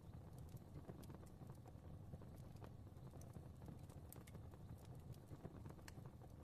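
Fire crackling softly: irregular small pops and snaps over a low, steady rumble of flame.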